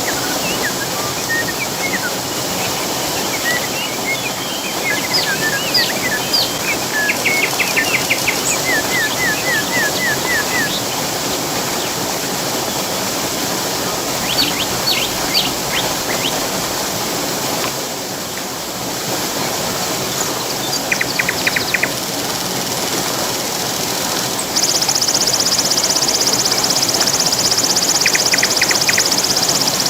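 Steady rushing of a waterfall or river, with birds chirping in short trills and runs of quick notes. About 25 seconds in, a loud, high, rapidly pulsing buzz starts suddenly and keeps going.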